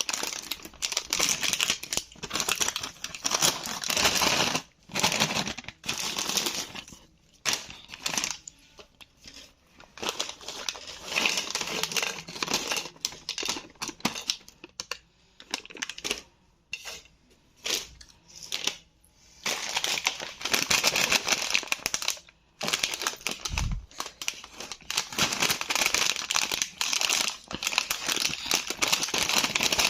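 Plastic-film Bingo Mad Angles chips packet crinkling as it is handled, in stretches with quieter pauses in between.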